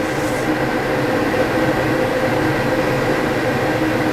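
Homemade waste oil burner running: a steady hum and rush from its blower and flame, with several steady tones held level throughout.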